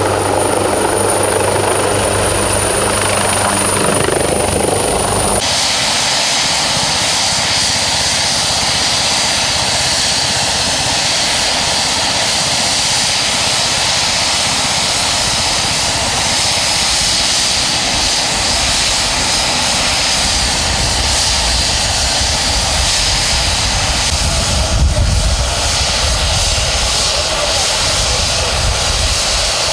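Helicopter running: a loud, steady engine-and-rotor noise. The sound changes abruptly about five seconds in, from a steadier hum with a thin high tone to a denser noise with a faint high whine.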